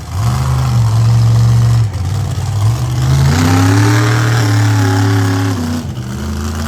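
Monster truck engine revving hard. It climbs sharply at the start and holds, dips briefly about two seconds in, then rises to a higher pitch. Near the end it drops back to a lower, steady run.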